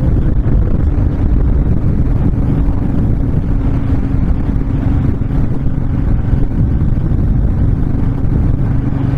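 Honda VTX1300 V-twin engine running steadily at cruising speed, with wind rushing past the rider and over the microphone. The engine holds one steady pitch throughout.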